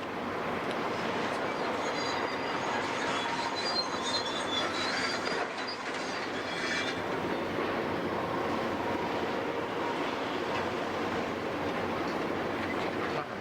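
A steady heavy mechanical rumble with a high steel-on-steel squeal from about two to seven seconds in.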